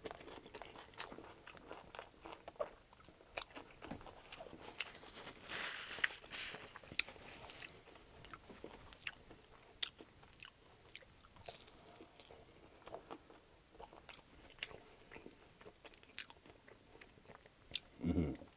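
Close-miked chewing of a bite of Subway sub sandwich with crusty bread: wet mouth clicks and crackles throughout, with a louder crunchy stretch about five to six seconds in.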